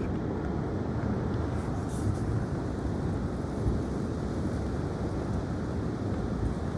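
Steady rush of strong wind, a continuous low rumble without distinct events.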